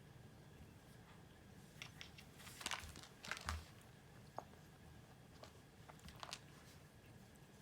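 Faint, scattered clicks and rustling, loudest in a short cluster around the middle, with one soft low thump.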